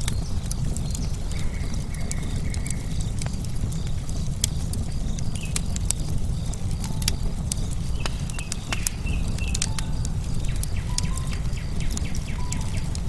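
Wood fire crackling: many sharp pops and snaps over a steady low rumble, with a few short whistled bird notes in between.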